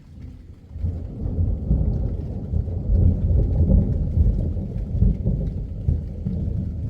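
Rolling thunder: a deep rumble sets in about a second in, swells to its loudest midway and slowly dies away. Light rain patters throughout.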